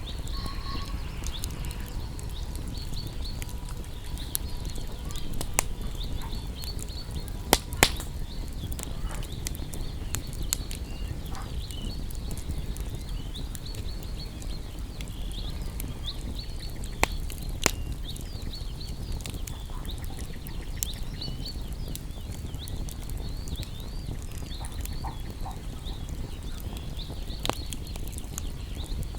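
Wood fire burning with a steady low rumble and scattered sharp crackles and pops, the loudest coming in quick pairs about eight seconds in and again about seventeen seconds in. Faint, high, short chirps or squeaks run through it.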